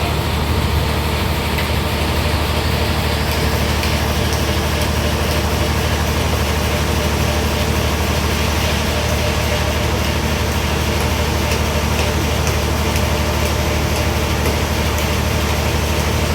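Sawmill engine running steadily, a constant mechanical drone.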